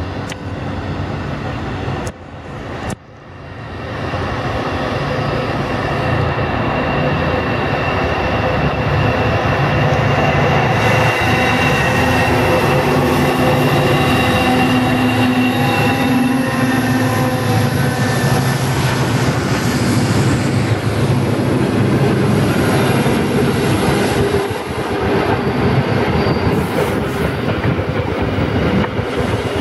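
Pacific National 81 class diesel-electric locomotives pass close by, followed by 48 class units hauling freight wagons, getting loud about four seconds in. Their engines give a steady heavy drone, mixed with high steady wheel squeal and the clatter of the wagons rolling over the track.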